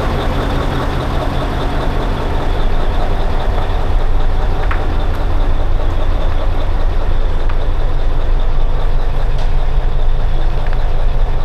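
V8 diesel engine of a custom Scania 112 truck running at a steady idle, a little louder from about two and a half seconds in.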